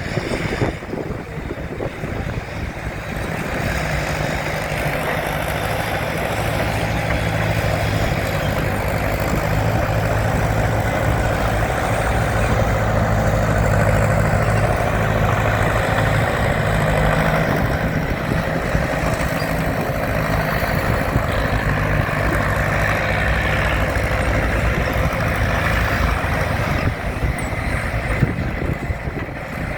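Ford County timber winch tractor's engine running steadily, growing louder over the first few seconds and then holding an even note.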